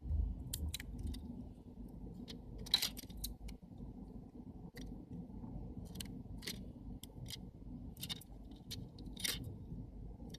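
Small camera-lens parts clicking and clinking as they are handled and tried into place: irregular sharp clicks, some in quick pairs, the loudest about three seconds in, over a low steady hum.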